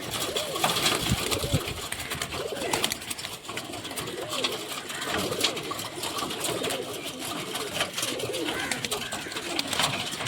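Domestic pigeons cooing over and over, each coo rising and falling, about one a second, with scattered sharp clicks and rustles among them.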